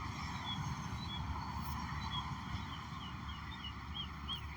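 Steady low rumble of outdoor background noise, with a run of short high chirps that come faster toward the end.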